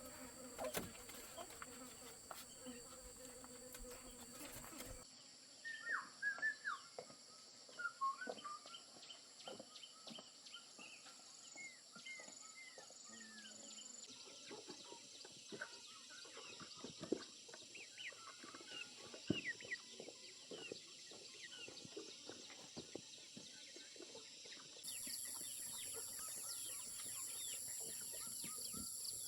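Chickens clucking and chirping in short, quick calls, with scattered clicks over a steady high-pitched hiss. The background changes abruptly a few times.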